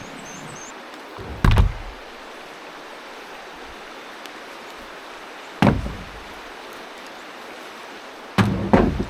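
Four heavy thumps, two of them close together near the end, over a steady rushing hiss.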